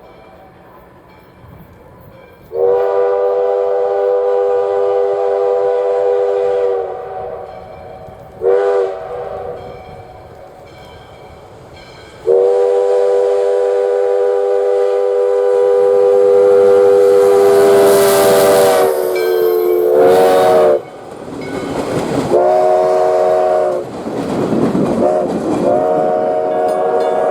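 Steam locomotive's chime whistle blowing a series of blasts: a long one, a short one, then a very long one that drops in pitch as the engine passes close, followed by shorter blasts. Under the whistle is the loud rumble of the passing train.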